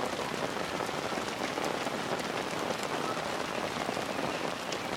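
Rain falling steadily on surfaces: an even hiss dotted with the small ticks of individual drops hitting.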